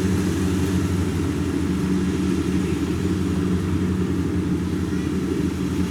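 Rice combine harvester's engine running steadily at a constant speed, a loud even hum.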